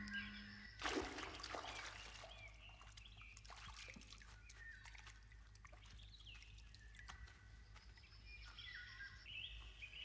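Faint birdsong: scattered short chirping calls from small birds, over a low steady hum. A brass note dies away at the very start, and there is a brief burst of noise about a second in.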